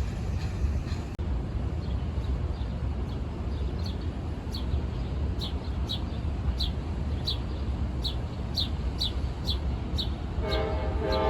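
Low rumble of a train running, with a bird's short falling chirps repeating about twice a second over it. Near the end a train horn starts to blow.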